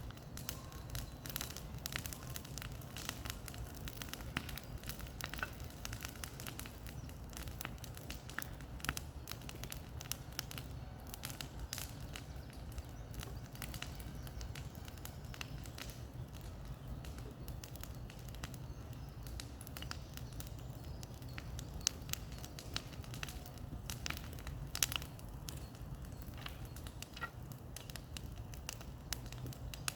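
Bonfire of cleared brush crackling, with frequent irregular sharp pops over a low steady rumble.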